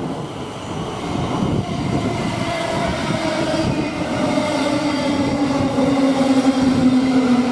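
A train approaching and passing close by, getting steadily louder. From about two seconds in, a whine rises out of the rumble and slides slowly down in pitch.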